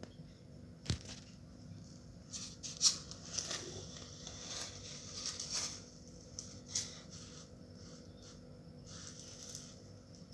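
Hand-work noises from crafting: a sharp click about a second in, then scattered rustling and scratching, with a few more light clicks.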